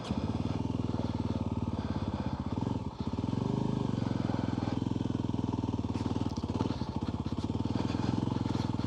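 Off-road motorbike engine running under way with a fast, even pulse. It comes in suddenly, and its note dips briefly about three seconds in.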